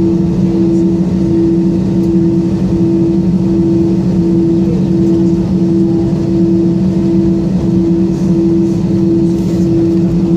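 Steady Airbus A320 cabin drone after landing: a low rumble with two steady humming tones, the higher one pulsing gently.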